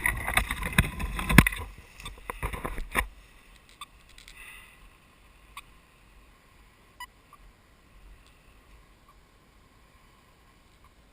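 Footsteps and body brushing through dense undergrowth, with loud rustling, crackling and snapping for about three seconds. After that it goes much quieter, with only a few faint ticks and clicks.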